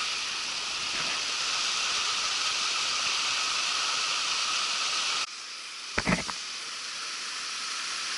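Steady hiss of rushing mountain-river water. It drops suddenly in level about five seconds in, and a short low thump follows about a second later.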